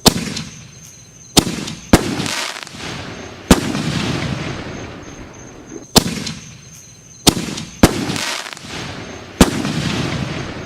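Aerial firework shells bursting: a series of sharp, loud bangs, each followed by a fading rush of noise. The same run of four bangs is heard twice.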